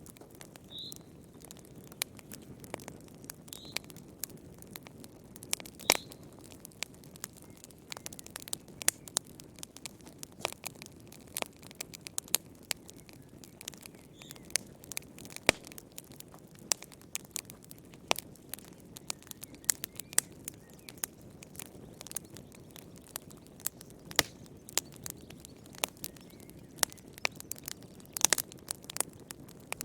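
Wood fire crackling in a fireplace: frequent irregular pops and snaps over a steady low rumble of the flames. A few faint, short bird chirps come in the first half.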